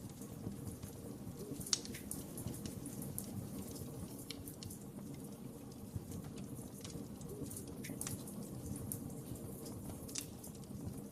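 Wood fire crackling in a fireplace: a steady low rumble of flames with scattered sharp pops and snaps, one louder pop about two seconds in.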